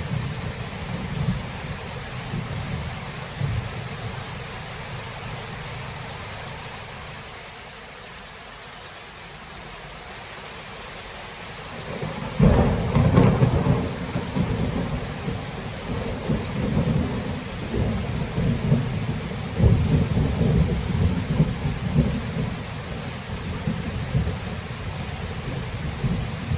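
Thunderstorm: steady rain hiss under rumbling thunder. The rumble dies down for several seconds, then a sharp thunderclap comes about halfway through and rolls on in repeated waves of rumbling.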